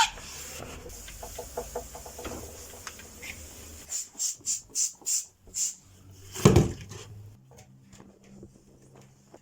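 Household cleaning sounds: about six quick hissing squirts of a hand spray bottle of vinegar cleaner in a row, followed by a single louder knock, with light clicks and handling noise around them.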